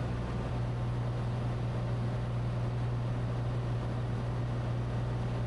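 Cessna 182T's six-cylinder Lycoming IO-540 engine and propeller droning steadily in flight, heard from inside the cabin.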